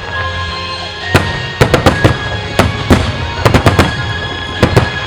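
Wide starmine fireworks shells bursting in rapid clusters of sharp bangs, several a second, starting about a second in, with music playing underneath.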